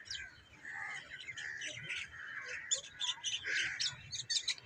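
Birds chirping: a dense run of short, high calls from several birds at once.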